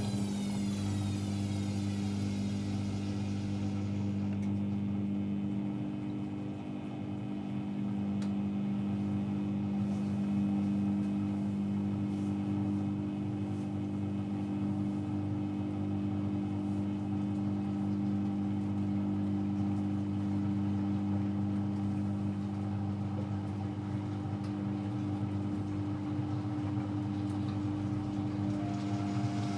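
AEG Electrolux Lavamat L74810 washing machine running with a steady, even motor hum at a constant pitch.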